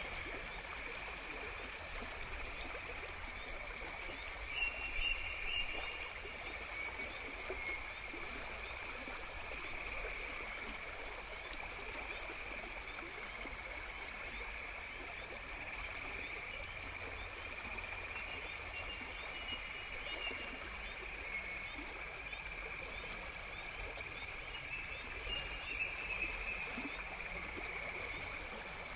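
Outdoor nature ambience: a steady chorus of insects over an even background hiss. A rapid pulsed trill comes in briefly early on and again for a few seconds near the end.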